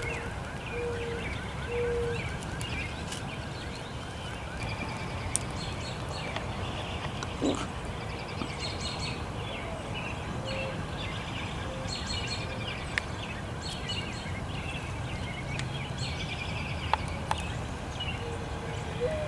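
Songbirds chirping and singing over a steady low background noise, with a few isolated sharp taps.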